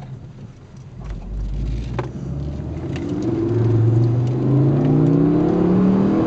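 Ford Focus ST's turbocharged 2.5-litre five-cylinder engine heard from inside the car, pulling hard under acceleration: quiet at first, then the revs climb steadily and grow louder from about halfway, dropping at a gear change at the very end.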